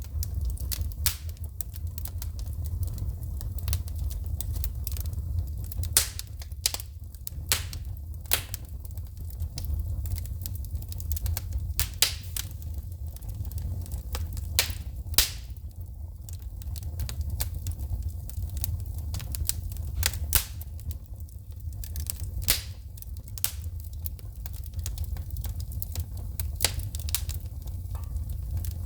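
Wood fire burning in a fireplace: a steady low rumble of flame with frequent sharp, irregular pops and crackles as the burning wood shoots sparks.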